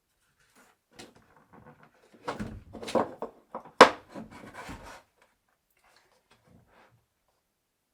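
Wooden bed parts being handled in a small room: a light click, then a run of wooden knocks and rubbing with one sharp knock near the middle, and a few faint taps after.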